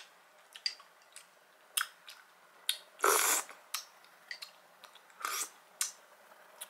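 Close-up eating sounds: a mouthful of creamy fruit salad being chewed, with scattered light clicks of a metal spoon in a small tub. The loudest mouth sound comes about three seconds in, lasting about half a second, with a shorter one a couple of seconds later.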